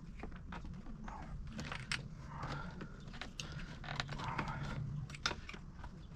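Irregular small clicks, taps and scraping of plastic clips and metal parts being pried loose and handled on a car seat's slide mechanism, over a steady low hum.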